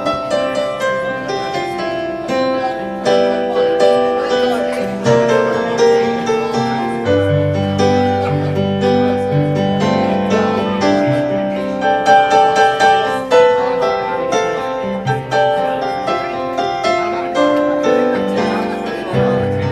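Live instrumental break of a pop-rock song: guitar and keyboard playing chords and melody without vocals.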